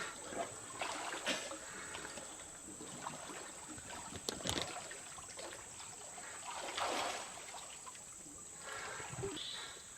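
Water softly trickling and splashing, with a few gentle sloshes in shallow lake water.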